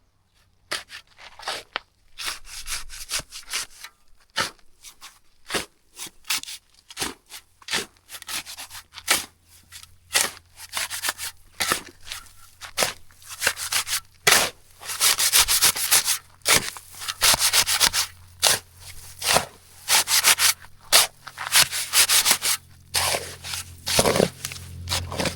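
Repeated scraping and rubbing strokes of a tool on a hard, gritty surface, irregular at a few strokes a second and busier in the second half, over a low steady hum.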